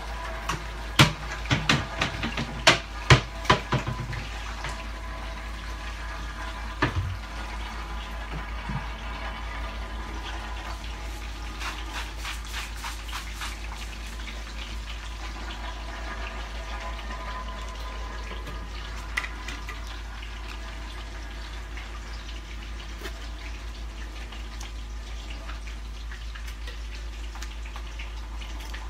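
Potatoes frying in a pan: a steady sizzle, with a run of clattering knocks in the first four seconds and another about seven seconds in.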